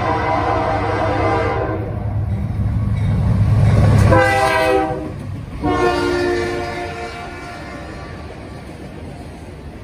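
Norfolk Southern freight train's lead diesel locomotive passing close by, its multi-tone horn sounding in three blasts; the second drops in pitch as the locomotive passes about four seconds in. The deep engine rumble peaks as the two locomotives go by, then gives way to the steadier roll of freight cars on the rails.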